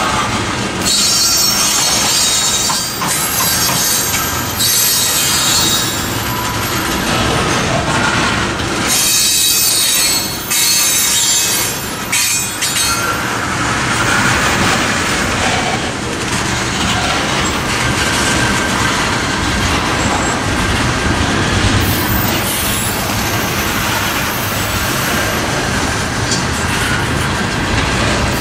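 Tank cars of a Norfolk Southern crude oil freight train rolling past close by: a steady rumble of steel wheels on rail, with high-pitched wheel squeal coming and going through the first half.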